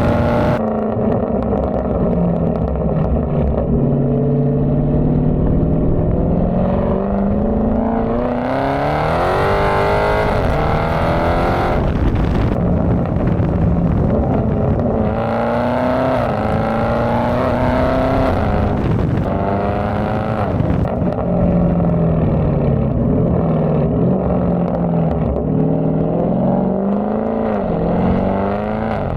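2019 Dodge Charger Scat Pack's 392 HEMI V8 exhaust on the move, the engine note climbing under acceleration several times and dropping back as it shifts or eases off.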